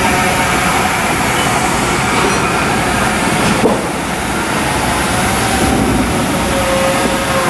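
Steady, loud mechanical rumble of shipyard work on a hull under construction, with a brief knock about three and a half seconds in.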